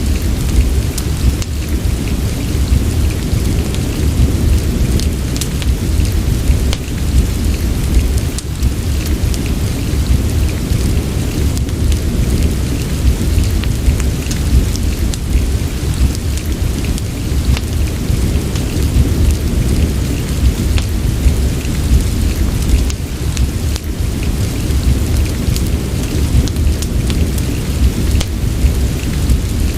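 Steady rain mixed with a crackling fireplace, with scattered sharp crackles and a deep, steady rumble underneath.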